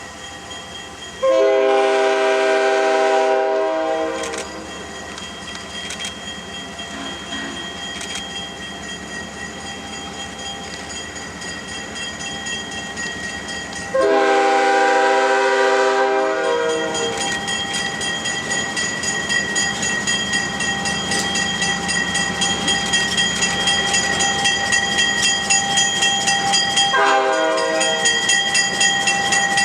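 Locomotive sounding its horn in three separate blasts, two long and a short one near the end, each a loud multi-note chord. Between them the train runs with a rhythmic beat that grows louder from about halfway through.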